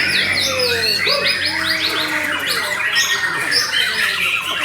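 White-rumped shama (murai batu) singing without pause: a dense stream of whistles mixed with fast runs of short falling notes, the crackling 'kretekan' phrases.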